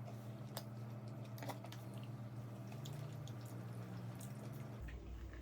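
Close-miked mukbang eating sounds: a person chewing and biting fried KFC food, with scattered wet mouth clicks and smacks. Under it runs a steady low hum that drops lower near the end.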